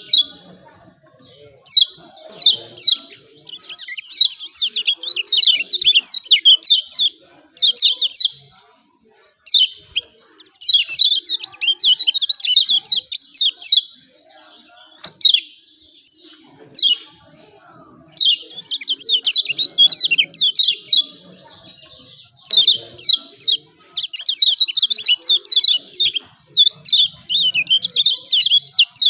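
Kecial kuning (Lombok white-eye) giving rapid, excited 'ciak ciak' chirping calls, many quick high falling notes packed into bursts of one to several seconds with short pauses between. This is the kind of call played as a lure to get caged white-eyes to start calling.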